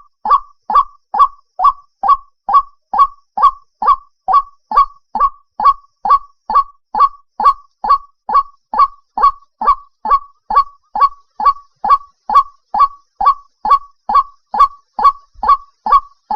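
White-breasted waterhen calling: a loud, steady train of short, downward-slurred notes, a little over two a second. It is a recorded call of the kind played as a decoy to lure the birds for night trapping.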